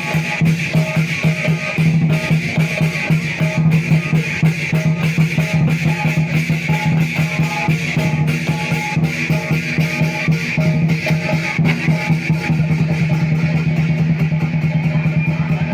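Lion dance percussion: a big drum beaten in a fast, steady rhythm with clashing cymbals, the beat growing quicker and more even near the end.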